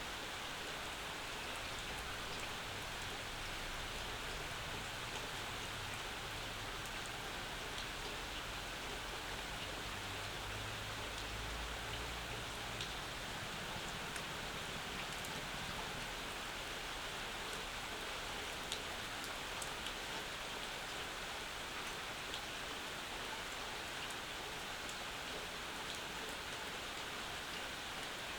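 Steady summer rain falling, with scattered single drops ticking sharply on nearby surfaces and a faint low rumble in the middle.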